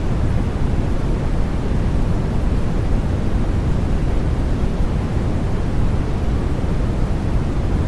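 Steady, unbroken sleep noise for babies: an even, deep rush, strongest in the bass and thinning toward the top, with no rhythm or change.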